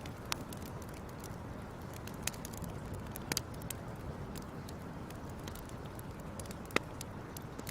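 Wood fire crackling: a steady low rushing hiss with scattered, irregular sharp pops, a handful of them louder than the rest.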